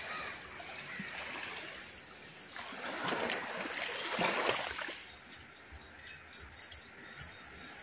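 Water running and splashing, swelling to its loudest in the middle, then giving way to a series of small sharp clicks and taps.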